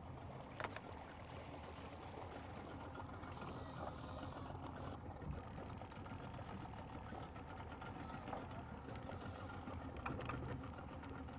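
A boat engine idling faintly and steadily, with a few light clicks and knocks.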